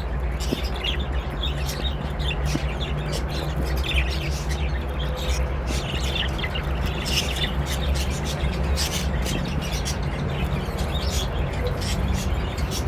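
Budgerigars chirping and twittering in short, frequent calls, over a steady low hum.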